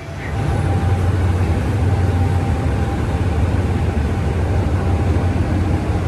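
Train engine running loud and steady close by as the train backs into the terminus platform. It is a deep, even hum that swells up over the first second.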